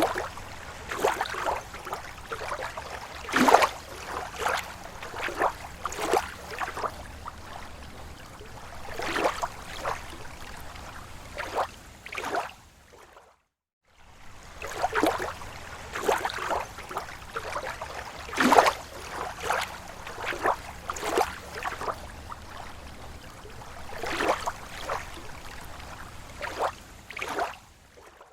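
Small waves lapping against a lake shore, a run of irregular soft splashes and slaps over a steady wash of water. The sound drops out for a moment about halfway through, and the same sequence of splashes then repeats, as in a looped recording.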